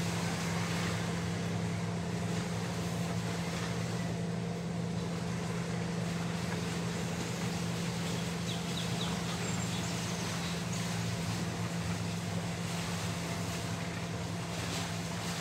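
Steady rain hiss over a constant low mechanical hum that holds one pitch throughout, with a few faint high chirps about nine seconds in.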